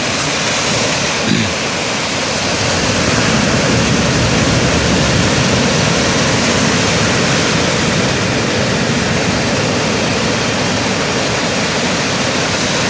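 Steady roar of sea surf breaking on the beach, with one short louder swell about a second in.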